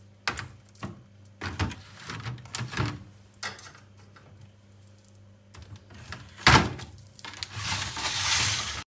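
Restocking sounds: packaged items and containers knocking and clacking as they are set into a fridge, over a low steady hum. There is a louder knock about six and a half seconds in, then a hissing rustle near the end that cuts off suddenly.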